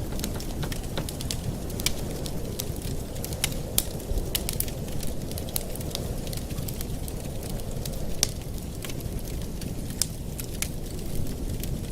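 Wood fire in a fireplace crackling, with sharp pops at irregular intervals over a steady low rushing noise.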